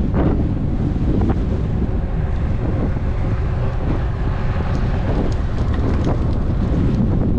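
Steady wind buffeting on an action camera's microphone while riding a road bike, with a few brief light knocks.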